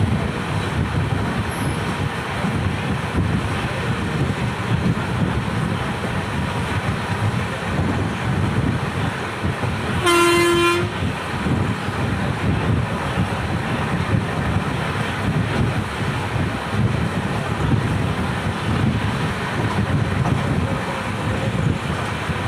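Passenger coach running at speed, with steady track noise and wind. About halfway through, the WAP7 electric locomotive's horn sounds once in a short blast of under a second.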